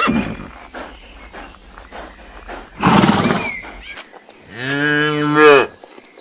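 A cow mooing: a loud, breathy call about three seconds in, then a long, clear moo near the end that holds steady and drops in pitch as it stops.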